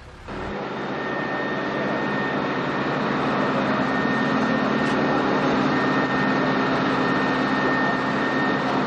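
Steady engine drone with a thin, high held whine, rising in level over the first few seconds and then holding.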